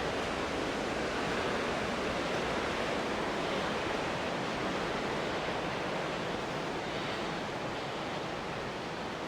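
Steady rushing of falling water from a waterfall and its creek heard from the trail, an even hiss that eases slightly near the end.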